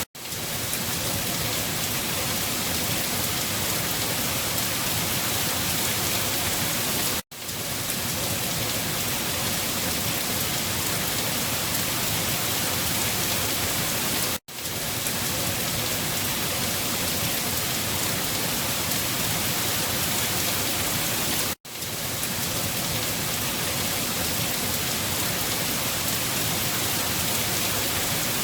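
Steady rain falling, a dense even hiss, broken by a brief silent dropout about every seven seconds.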